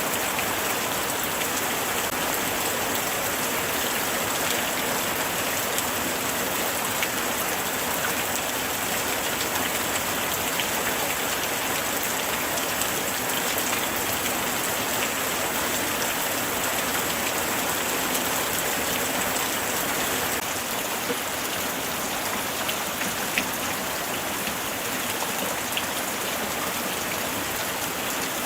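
Steady light rain falling, a dense patter of drops with an occasional louder single drop.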